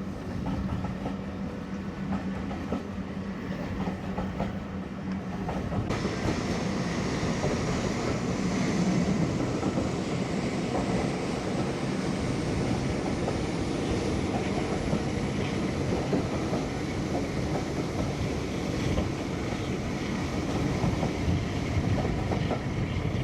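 Heritage diesel-hauled passenger train heard from on board while running: a steady engine drone under rumbling rail and running noise. About six seconds in, the sound turns brighter and a little louder.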